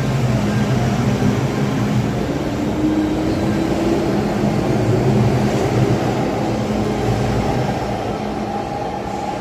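MTR M-Train electric multiple unit running, with the rumble of its wheels and a motor whine that rises slowly in pitch twice as the train gathers speed.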